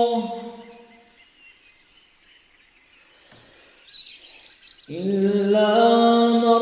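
A man's melodic Quran recitation: the drawn-out word "Allah" fades with an echo within the first second, then a quiet pause with faint high chirping, and about five seconds in his voice comes back on a long held note.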